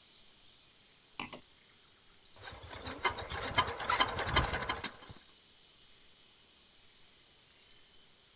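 A sharp click, then about three seconds of clattering with many quick clicks, like small parts being handled. A few faint, short high chirps come and go.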